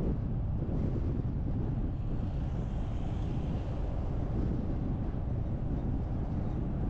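Steady low rumble of a car driving, with road and wind noise and no change in pitch or level.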